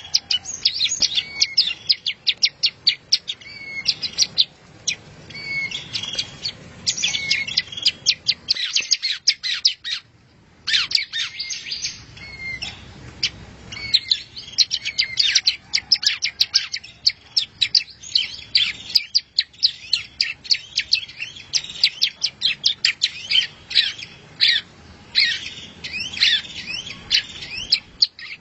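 A small songbird singing a long, fast song of sharp chirps and trills, with a brief pause about nine seconds in. It is a masteran recording, the kind of song played to tutor caged songbirds for singing contests.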